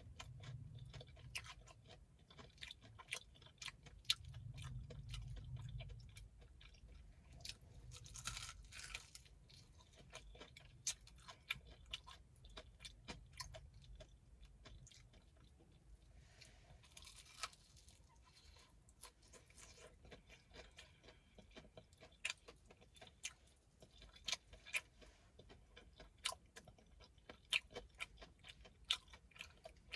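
Close-up chewing of crispy batter-fried Popeyes chicken: soft mouth sounds broken by many short, sharp crunches of the breading, which come more often and more sharply in the second half.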